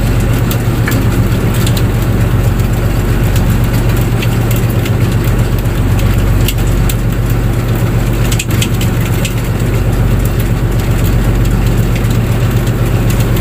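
A fishing boat's engine running steadily, a loud low drone, with scattered sharp clicks and crackles over it.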